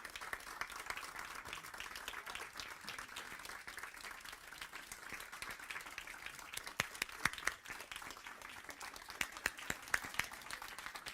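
Audience applauding: many hands clapping together in a steady patter, with a few louder, sharper claps near the middle and toward the end.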